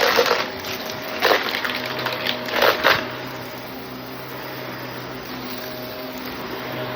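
Shark vacuum cleaner running with a steady hum. For the first three seconds or so there are loud clattering crackles, as picked-up debris rattles through it, then only the even running sound.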